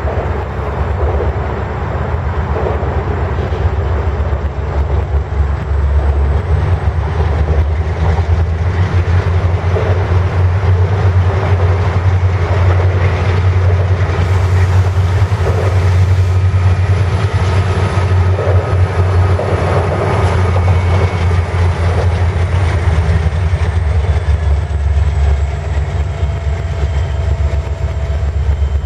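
Norfolk Southern freight train with its diesel locomotives running: a steady, loud low engine drone under continuous wheel and rail noise.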